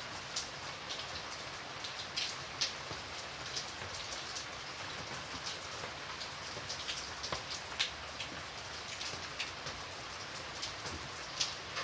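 Steady rain falling, a constant hiss with scattered individual drops tapping close by.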